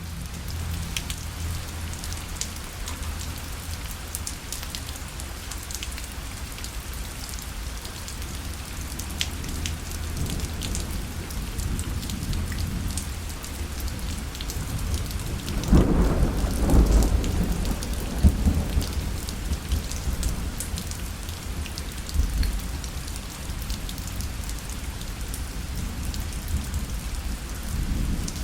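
Steady rain pattering on a parasol, with scattered sharp drops. A low roll of thunder swells about halfway through and dies away over a few seconds.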